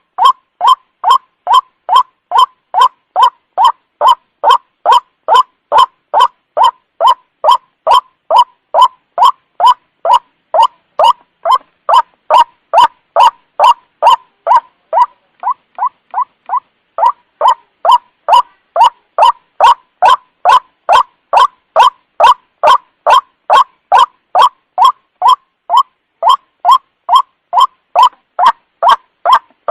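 White-breasted waterhen's (ruak-ruak) lure call: one harsh note repeated steadily about twice a second, briefly softer for a couple of seconds midway.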